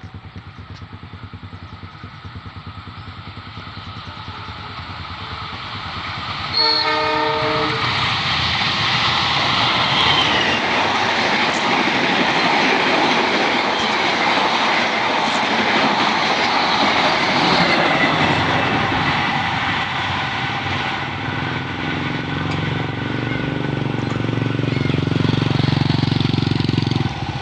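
Passenger train coming up to a level crossing, its running noise building. The diesel locomotive gives one short horn blast about seven seconds in, then the train passes close by, loud, with wheels clattering on the rails.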